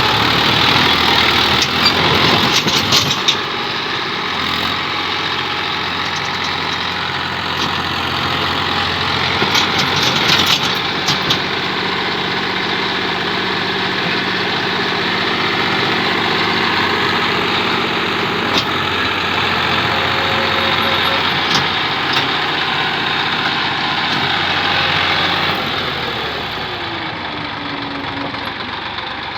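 Massey Ferguson tractor's diesel engine running hard under load while it tries to haul a trolley up a slope out of mud, with a few sharp knocks. Near the end the engine note falls and it gets quieter as the revs drop.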